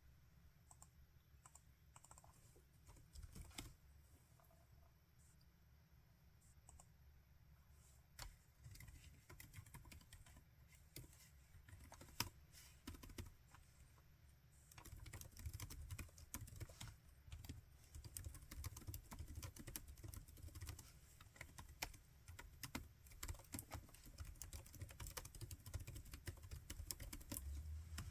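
Laptop keyboard typing, quiet and close: a few scattered keystrokes at first, then steady continuous typing from about halfway through.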